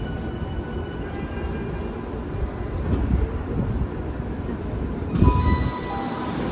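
Running sound inside a Tokyu 5050 series motor car: a steady low rumble of wheels on rail. About five seconds in there is a thump, and the traction inverter starts a set of stepped electronic tones.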